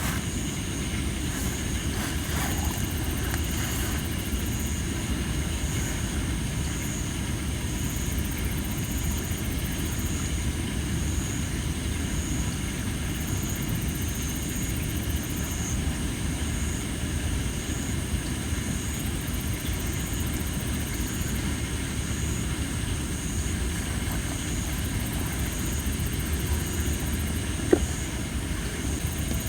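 Tree-of-heaven (ailanthus) firewood burning in a campfire: a steady low rush with a few small crackles about two seconds in and one sharp, loud pop near the end as the moist wood bursts. Insects trill steadily in the background with a high, pulsing note.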